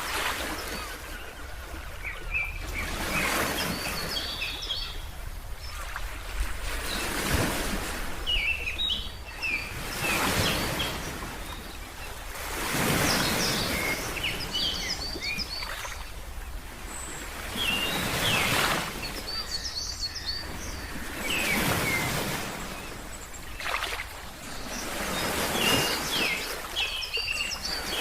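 Ocean waves washing in and drawing back, swelling every few seconds, with small birds giving short, high chirps between and over the surges.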